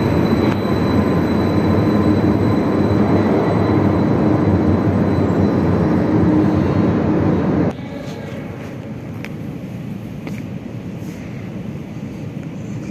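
Metro train running, a loud steady rumble that cuts off abruptly about eight seconds in, leaving a quieter hum with a few faint clicks.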